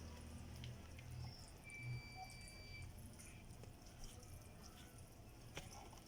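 Faint stirring and beating of cake batter in a bowl, with soft scattered clicks of the utensil against the bowl.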